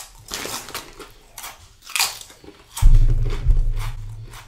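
Crunching bites and chewing of a Doritos tortilla chip, a run of sharp crunches. A loud low rumble comes in about three seconds in and fades away.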